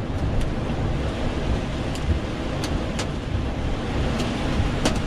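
Heard from inside a vehicle cabin in a thunderstorm: a steady low rumble with a handful of irregular sharp ticks of storm precipitation striking the roof and windshield.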